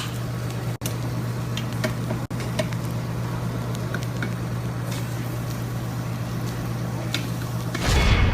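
Meat sizzling on a tabletop Korean barbecue grill over a steady low hum, with a few light clinks of dishes. Near the end a deep rumbling whoosh cuts in.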